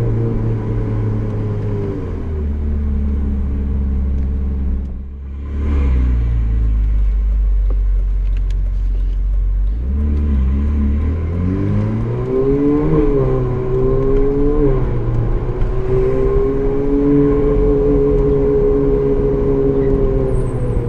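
Ferrari 458 Italia's V8 engine driving at low speed, heard from inside the cabin. It holds a low steady drone with a brief drop about five seconds in, then the revs rise and fall between about ten and fifteen seconds before settling steady again.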